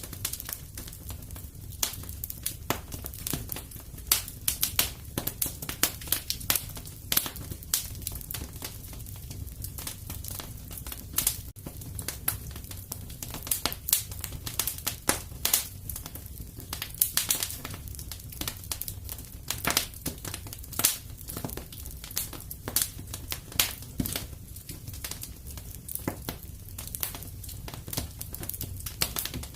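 Fire in a fireplace crackling and popping irregularly, with some louder pops, over a steady low rumble.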